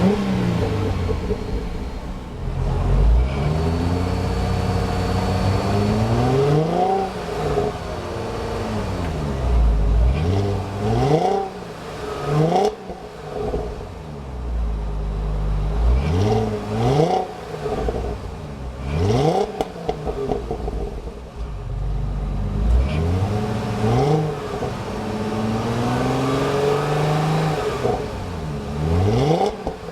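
2003 Chrysler 300M Special's 3.5-litre 24-valve V6 with performance dual exhaust, revved up and let fall back again and again, about ten times. The exhaust has a slight gurgle.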